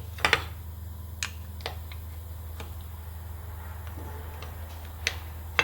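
Scattered sharp clicks and light knocks of metal being handled, a close pair about a third of a second in and a few single ones after, as a steel workpiece on a magnetic bevel jig is flipped and turned. A steady low hum runs underneath.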